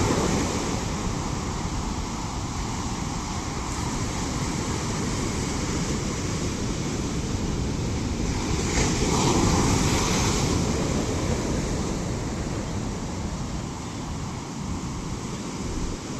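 Ocean waves crashing: a continuous rush of surf, with one wave swelling louder about nine seconds in.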